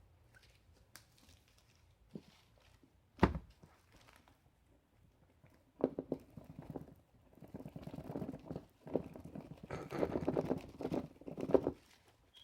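Packaging being handled while an iPad box is opened: a single sharp knock about three seconds in, then several seconds of rustling and crinkling of wrapping that stops near the end.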